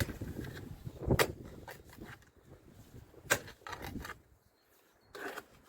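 Hand work on rose-bush roots around an excavated clay drain pipe: scraping, with sharp knocks about a second in and about three seconds in, and a few smaller knocks after.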